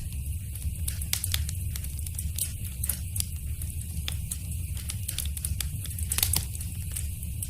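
Fire in a fireplace crackling: irregular sharp pops and snaps over a low steady rumble, with a louder cluster of pops a little after six seconds.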